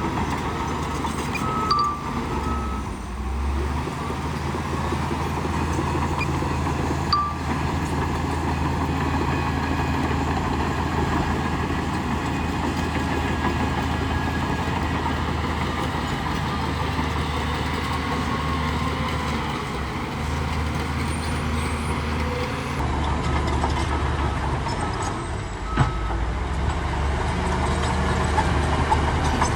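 Heavy earthmoving machinery's diesel engine running steadily with a low drone. A few short high beeps sound near the start and again about a third of the way in, with the odd sharp clunk.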